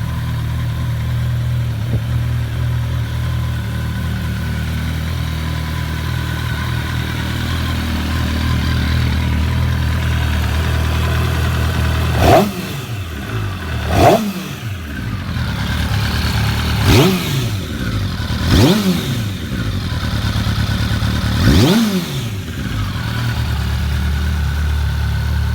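2010 MV Agusta F4's inline-four engine on its stock exhaust, idling steadily, then blipped five times in quick succession about halfway through, each rev rising sharply and dropping straight back to idle.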